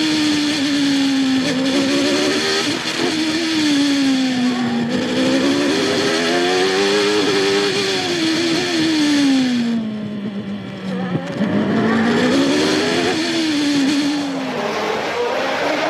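Engine of a 1993 Formula One car, a naturally aspirated 3.5-litre racing engine, revving hard with its pitch repeatedly climbing and falling through gearshifts and braking for corners. Past the middle it drops to a low, slower pitch and eases off, then climbs again.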